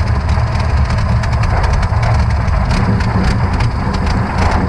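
Ford 300 cubic-inch inline-six engine idling steadily, with light ticking over its low running note. It is turning the power steering pump, which is pushing fluid through the new hydroboost to flush it.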